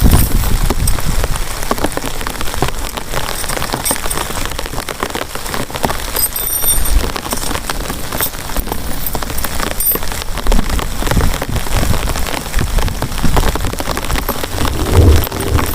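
Heavy rain falling steadily, with many close drops clicking on a hard surface. A short low rumble comes near the end.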